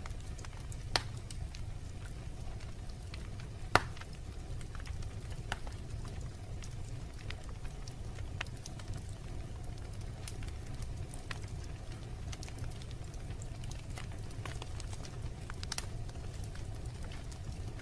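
Wood fire burning in a fireplace: a steady low rumble of the flames with scattered sharp crackles and pops, the loudest pop about four seconds in.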